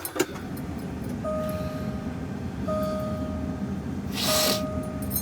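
Semi truck's diesel engine idling, heard from the cab, with an electronic warning beep sounding for about a second roughly every second and a half. A short hiss cuts in about four seconds in.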